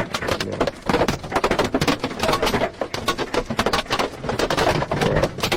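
Hailstones pelting a car's windshield glass: a dense, irregular clatter of hard hits.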